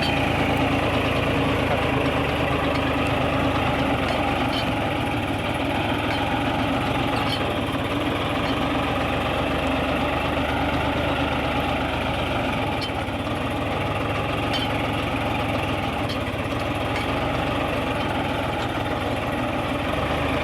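Farmtrac Champion 41 tractor's three-cylinder diesel engine running steadily at constant speed.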